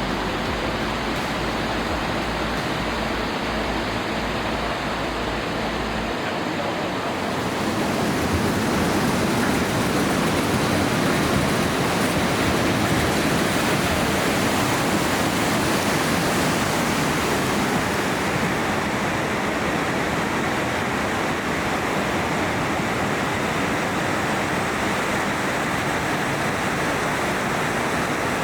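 Steady rushing of running water. A low rumble under it stops about seven seconds in, and the rush then grows a little louder.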